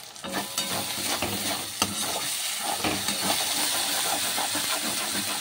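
Thick mushroom masala sizzling in a steel kadhai while a metal spatula stirs and scrapes it, with sharp clicks of the spatula on the pan now and then. The masala is frying down and starting to stick to the pan.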